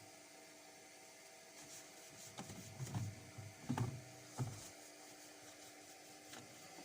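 Washing machine running in its drain phase: a faint steady hum, with a few soft low thumps from the drum in the middle.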